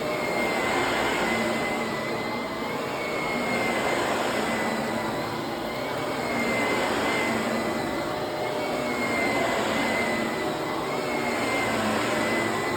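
Vacuum cleaner running with a high whine, its sound swelling and easing every two to three seconds.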